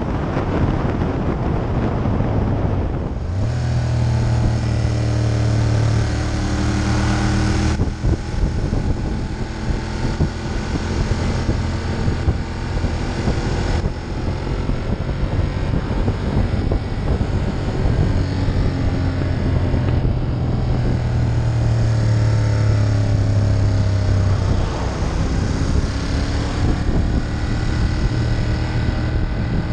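Ducati Monster 1200's L-twin engine running under way, its pitch rising and falling several times, with wind rushing over the microphone. The wind is strongest in the first few seconds, before the engine note comes through.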